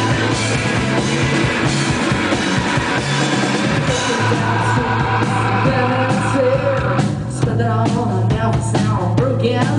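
A rock band playing live and loud: distorted guitars, bass and drum kit, with a voice singing over them in the second half.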